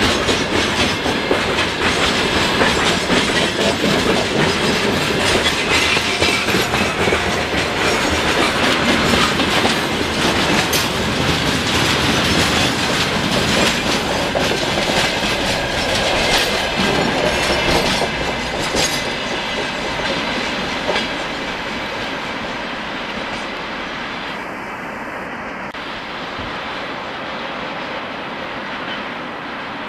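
Long freight train of open wagons and tank cars rolling past close by, its wheels clicking over the rail joints with a steady steel rumble. A bit past halfway it grows quieter as the last wagons draw away.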